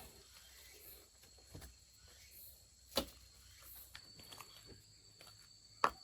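A few sharp knocks, the loudest about three seconds in and again just before the end, over a faint outdoor background; a faint steady high tone sets in about two-thirds of the way through.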